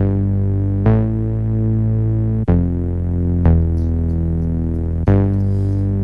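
Isolated synthesizer bass line: sustained, overtone-rich bass notes, a new note starting about every one to one and a half seconds, five in all.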